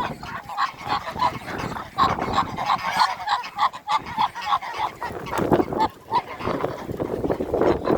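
Farm waterfowl calling in a rapid string of short, overlapping calls, with a few lower, louder calls about five and a half seconds in and near the end.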